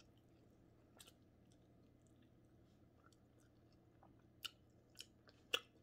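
A mouth chewing crispy fried fish, faint wet chewing broken by short sharp crunching clicks: one about a second in and several close together near the end, the loudest a little after five seconds in.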